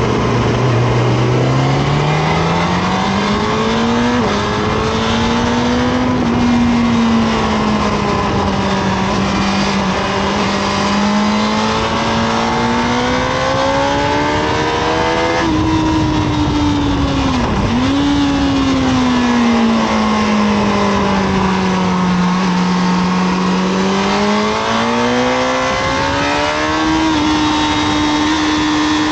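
Honda CBR1000RR (SC57) inline-four engine heard onboard at track speed, its pitch rising and falling with throttle and gear changes, over steady wind rush. The note climbs in the first few seconds, dips briefly about four seconds in, and drops sharply then recovers about two-thirds of the way through.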